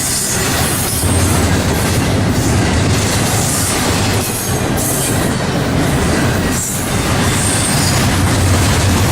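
Norfolk Southern train rolling past close by: a loud, steady rumble of wheels on rail. High-pitched wheel noise comes and goes every second or two.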